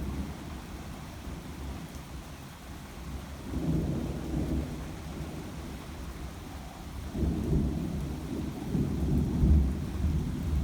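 Rolling thunder, a low rumble that swells about three and a half seconds in and again in a longer roll from about seven seconds.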